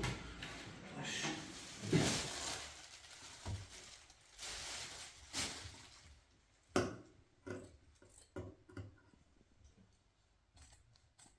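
Rustling for the first few seconds, then a string of short, sharp clicks at irregular intervals, as of things being handled.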